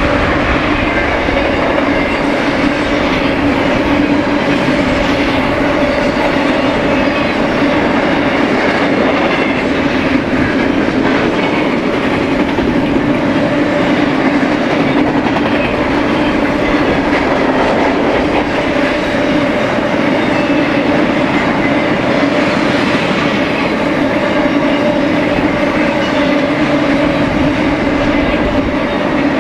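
BNSF freight train rolling past close by: a steady rumble and clatter of wheels on the rail, with a steady hum running under it.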